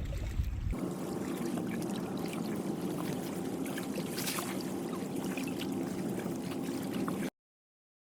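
Water trickling and lapping with many small clicks and crackles. A low rumble stops under a second in, and the water sound cuts off abruptly to silence near the end.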